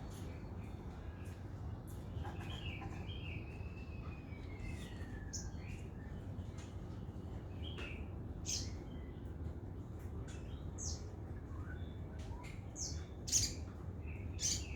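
Sogon, a sunbird, singing a series of short, sharp, high chirps in quick irregular succession. Between about two and five seconds in there is one long whistle that falls in pitch. A low steady hum runs underneath.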